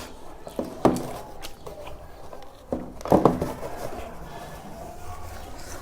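Close chewing and mouth sounds of someone eating, with a few sharp clicks, the loudest about three seconds in.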